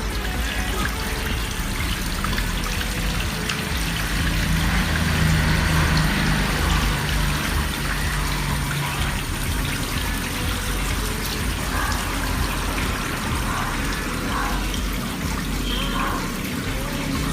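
Water falling steadily from a small garden waterfall and fountain into a koi pond, a continuous trickling splash.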